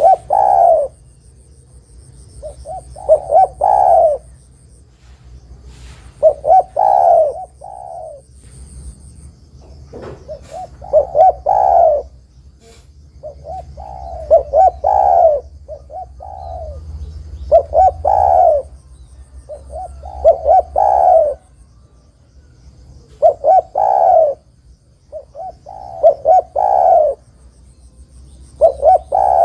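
Spotted dove (tekukur) cooing its song over and over. Each phrase is a few quick coos ending in a longer, falling coo, repeated about every three to four seconds, eight or nine times.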